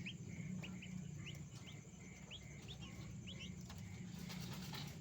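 A bird chirping: short, high, rising chirps repeated about two to three times a second, stopping after about three and a half seconds, followed by a brief rustling scuffle near the end over a steady low hum.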